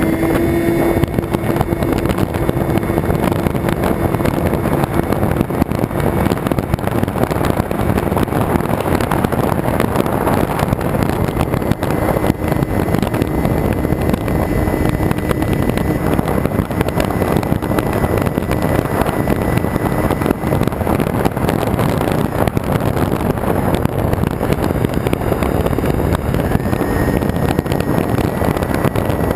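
Onboard sound of a Twin Star RC plane in flight: a steady rush of wind over the camera with the faint, even whine of its electric motors.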